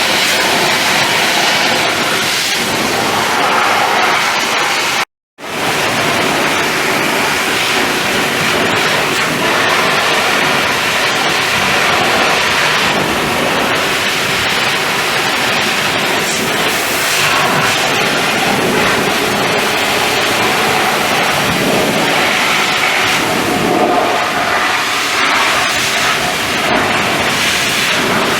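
Water spraying onto a truck's bodywork, a steady rushing hiss that cuts out completely for a moment about five seconds in.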